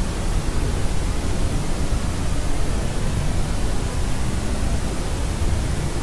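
Steady white noise used as a sleep aid for babies: an even, unchanging hiss with most of its weight in the low end.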